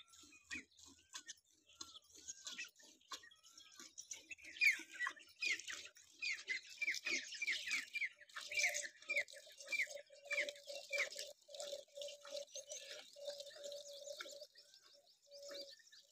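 Birds chirping in a chorus, with one bird repeating a quick downward chirp about twice a second for several seconds.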